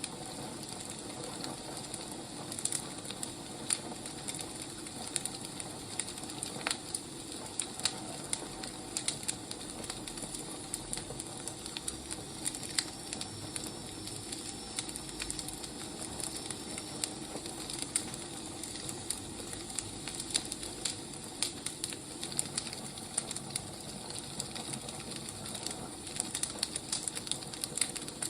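Wood fire crackling: a steady hiss with frequent, irregular sharp pops and snaps from burning logs.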